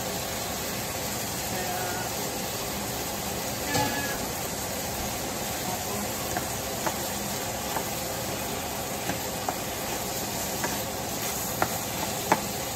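Diced tomatoes, onion and garlic sautéing in a stainless steel pan, a steady sizzle and hiss, with light clicks of a wooden spoon stirring against the pan, more frequent near the end.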